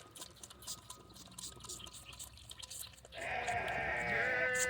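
St Croix hair sheep lambs sucking milk from bottle nipples, a soft rhythmic wet clicking about three times a second. About three seconds in, a lamb bleats once for about two seconds.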